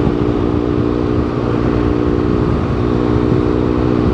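BMW R1200GS boxer-twin engine with an SC Project exhaust, running at a steady, unchanging speed while the bike is ridden. Wind rumble on the rider's microphone sits underneath.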